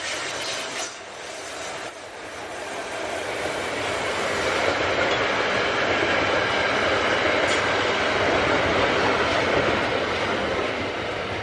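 Train passing close by, its wheels rolling over the rails, growing louder a couple of seconds in and staying strong before easing slightly near the end. A thin high squeal of wheels on rail stops about seven seconds in.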